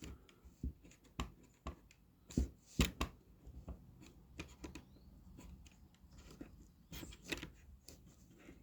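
Scattered light knocks and clicks of wooden boards being handled and shifted into position on a workbench, irregular and quiet, with a cluster of sharper knocks about two and a half to three seconds in.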